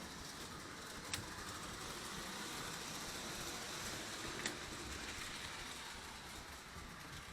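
Lionel toy train running on its track: a steady low rumble, with two sharp clicks, about a second in and again about four and a half seconds in.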